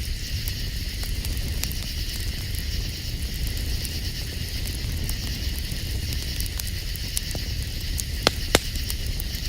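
Campfire crackling with scattered pops, two sharper pops near the end, over a steady high chorus of night insects and a low rumble.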